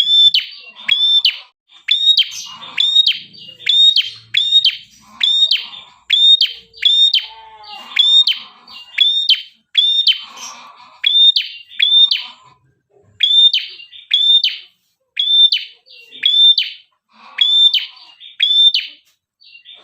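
Prenjak kepala merah (a red-headed prenjak, a small warbler-type songbird) calling nonstop in a lively, energetic burst, known in Indonesian as 'gacor'. The call is a sharp, high note repeated about twice a second, often in pairs. This is the kind of call used to lure other prenjak into calling back.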